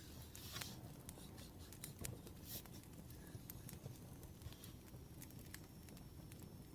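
Wood fire crackling faintly, with scattered sharp pops and snaps at irregular intervals over a low rumble.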